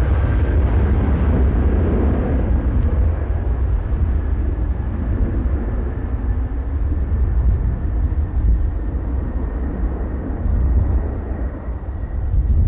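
Jet airliner departing: a deep engine rumble with a faint steady whine, fading gradually as the aircraft climbs away.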